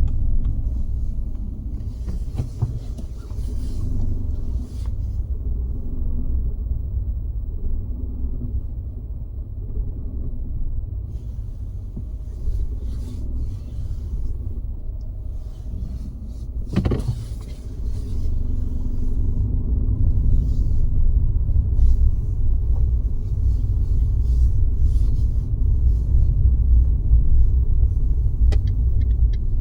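Car driving: steady low road and engine rumble that grows louder in the second half, with one short sharp knock a little past halfway.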